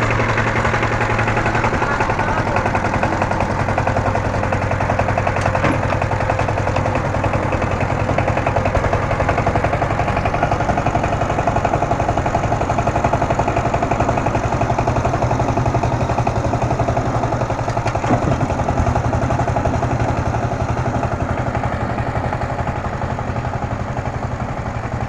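Power tiller's single-cylinder diesel engine running steadily with a rapid, even chugging, a little quieter in the last few seconds.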